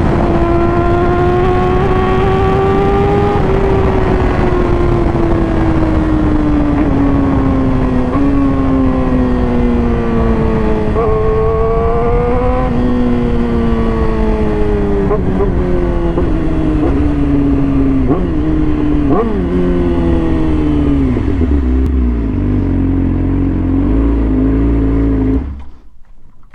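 Sport bike engine under way with wind rush, its pitch rising and falling through several gear changes on a quick shifter. Later comes a run of short rev blips on downshifts as it slows to a low idle, and then the sound cuts off.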